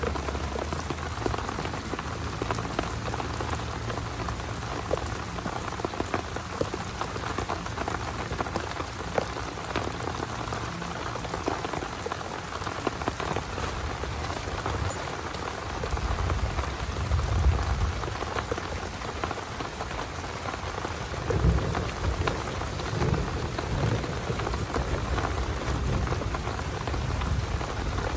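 Heavy rain falling steadily, a dense patter of drops on a surface, with low rumbles rising about halfway through and again near the end.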